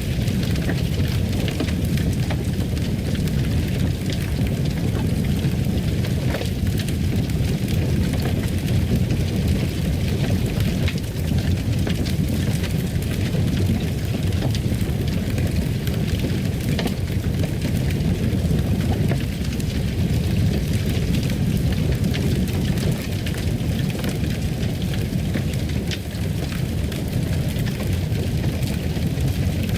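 Fireplace fire crackling steadily, a dense run of small crackles over a constant low rumble.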